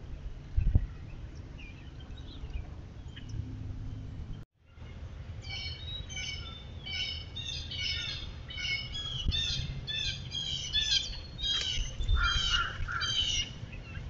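Wild birds calling: after a brief cut-out, a fast run of short, high chirping calls sets in and grows denser, with lower calls joining near the end. Before that, only a low rumble with a single thump about a second in.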